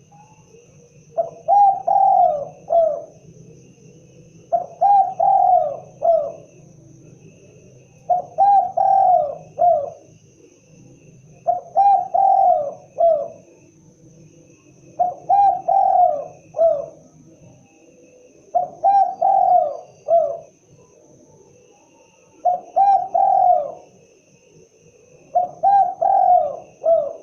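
Spotted dove (tekukur) cooing: eight repeated phrases of several notes each, one about every three and a half seconds.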